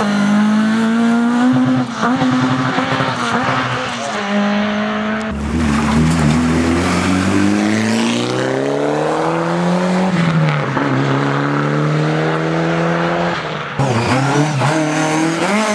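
Rally car engine being driven hard on a stage, its note climbing and dropping with throttle and gear changes. The sound changes abruptly about five seconds in and again near the end, as a different stretch of engine note takes over.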